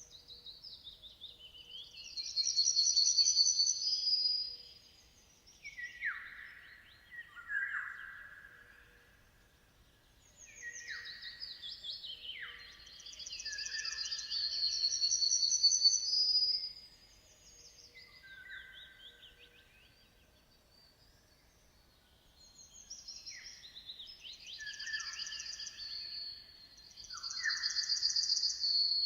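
Songbirds singing: three long bouts of quick chirps, trills and falling whistles, each several seconds long with short pauses between them.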